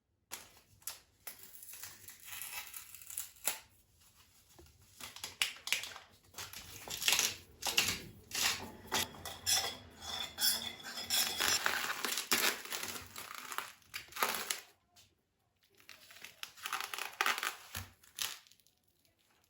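Crinkling and rustling, as of packaging being handled and torn, mixed with small kitchen knocks and clinks. It stops briefly about three quarters of the way through, then resumes for a few seconds.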